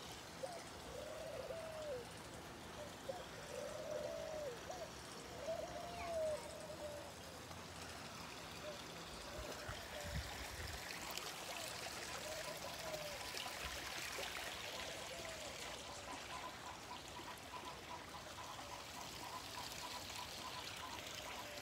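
A bird calling a short arched note over and over, about once a second for the first several seconds and again briefly around the middle, over a steady faint hiss.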